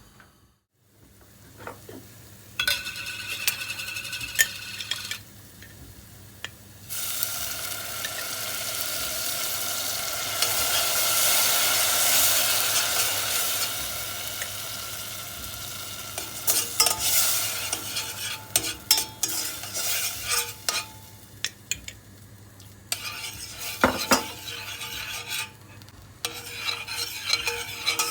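Food frying in a hot pan. A steady sizzle swells up about seven seconds in and dies down by around sixteen seconds, followed by a utensil stirring and clicking against the pan.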